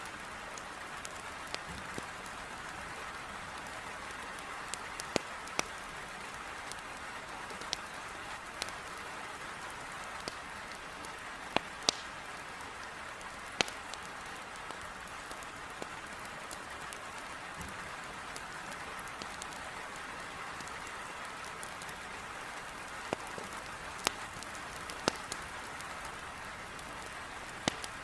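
Heavy rain with a steady hiss, beating on a window, over a wood fire crackling in a fireplace, with sharp pops at irregular intervals.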